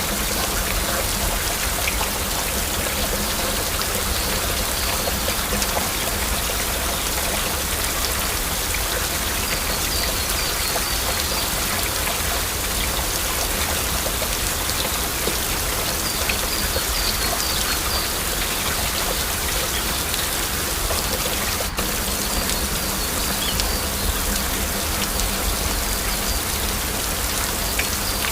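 Steady heavy rain falling, an even hiss of drops with no lulls. A brief high chirping call comes through a few times.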